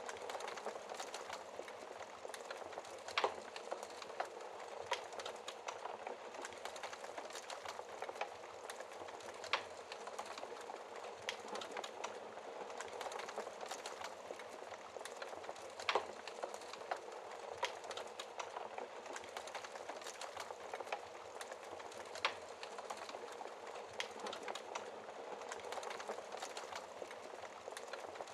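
Wood fire burning in a fireplace, crackling: a steady hiss with many small snaps and a few louder, sharper pops spaced several seconds apart.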